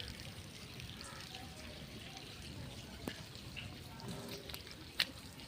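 Rain falling with hailstones striking, a steady patter broken by scattered sharp knocks; the loudest knock lands about five seconds in.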